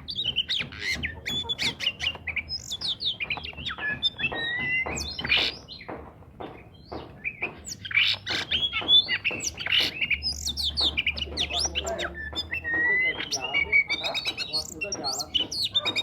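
Oriental magpie-robin (kacer) singing a continuous, varied song of rapid whistles, chattering and harsh notes, with a brief lull about halfway through.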